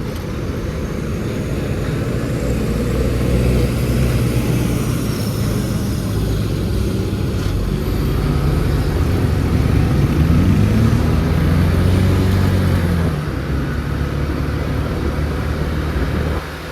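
Motor scooter engine running on the move, with road noise. Its pitch climbs about two-thirds of the way in, then falls back.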